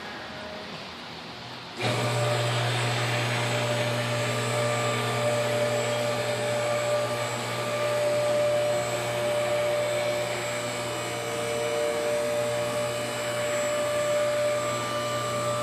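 Electric motor of a shop lift starting about two seconds in and running steadily, with a constant hum and a steady whine, as the lift raises and separates the car from its engine and transmission.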